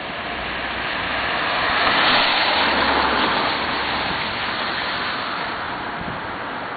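A vehicle passing on a wet street, its tyres hissing, swelling to a peak about two seconds in and then slowly fading.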